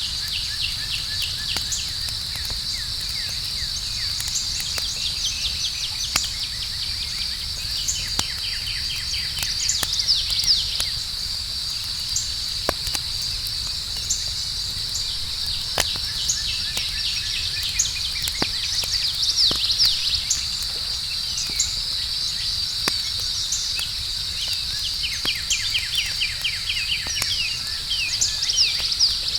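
Campfire crackling with scattered sharp pops over a low, even rumble, set against a steady high chorus of night insects chirping, with a few faster trills now and then.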